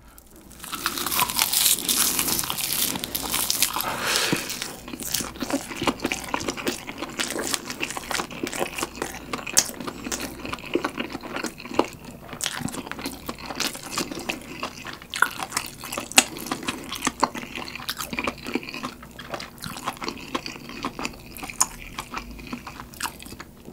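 Close-miked bite into a dried-laver (gim) wrap of saucy noodles and bulgogi: a loud crackling crunch from the crisp seaweed for the first few seconds, then steady wet chewing with many small clicks.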